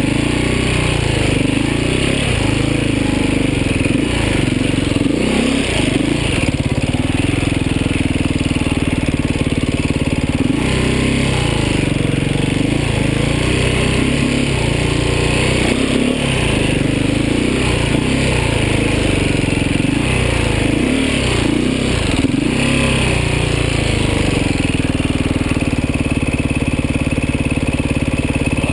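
Beta 450 RR enduro motorcycle's single-cylinder four-stroke engine running while being ridden, its pitch repeatedly rising and falling as the throttle is opened and closed.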